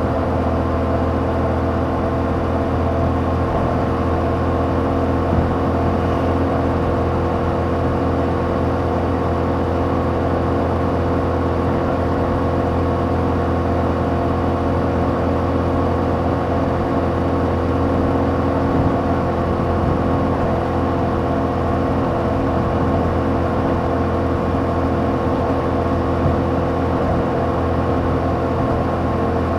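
2021 Yamaha MT-07's 689 cc parallel-twin engine running through its stock exhaust, holding a steady, even pitch as the bike cruises.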